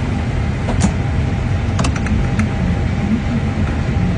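Steady low rumble of airliner cabin noise inside an Airbus A321, with a few faint light clicks.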